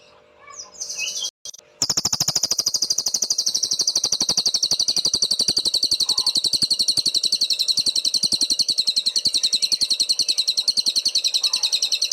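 Cililin songbird singing: a few short chirps, then from about two seconds in a loud, very fast, high-pitched trill held without a break.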